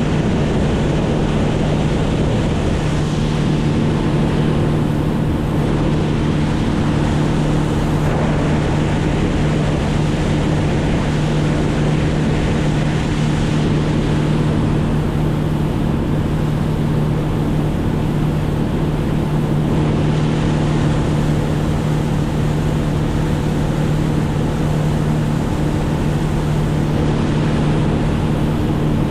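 An engine running steadily at one unchanging pitch, with wind noise on the microphone.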